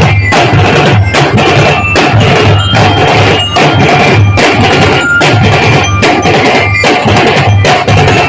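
Drum corps playing live: loud drums keep a steady beat of about three strikes a second, with short, bell-like melody notes ringing above them.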